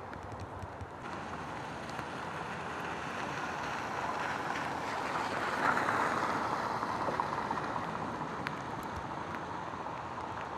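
A vehicle passing on a rain-soaked road, its tyres hissing on the wet surface, swelling to its loudest about halfway through and fading again, over a steady wash of noise.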